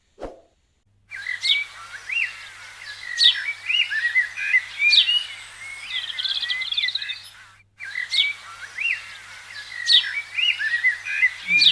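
Small birds chirping and singing: quick sweeping whistled notes and fast trills overlapping one another, broken by a brief gap about two-thirds of the way through.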